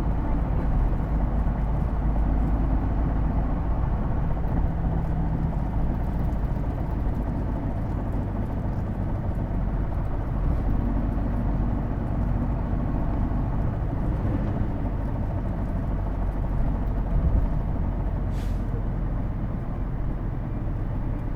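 Interior sound of a Hino Blue Ribbon II city bus (PJ-KV234L1) running, a steady low engine drone with shifting pitched tones from its drivetrain, the distinctive transmission whine that makes this manual bus sound like an automatic. A brief hiss cuts in near the end.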